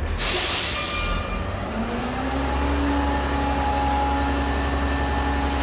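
Garbage truck: a short, loud air hiss from the air brakes near the start, then about two seconds in the diesel engine rises in pitch and holds a steady drone.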